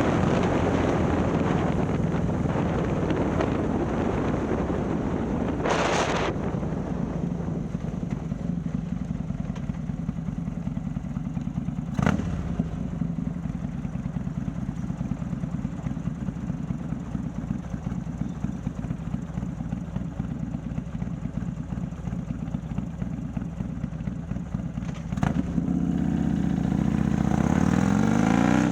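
Harley-Davidson Milwaukee-Eight V-twin, bored out to 130 cubic inches and breathing through a ThunderHeader exhaust, running under way with wind rushing past. It settles into a steadier, quieter cruise, with a brief loud rush about six seconds in and a sharp click midway. Near the end the engine accelerates, rising in pitch and getting louder.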